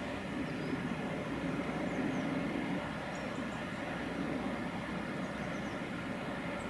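A train's steady rumble, with faint bird chirps high above it.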